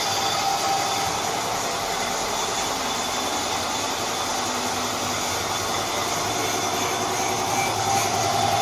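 A machine running steadily, a continuous mechanical drone that gets a little louder near the end.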